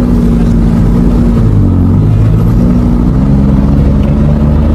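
A motor vehicle's engine running hard and close, its pitch dipping about one and a half seconds in, then rising and wavering as the load changes.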